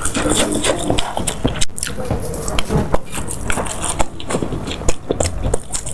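A person biting and chewing food close to the microphone, with many short crunches and wet mouth clicks at an uneven pace.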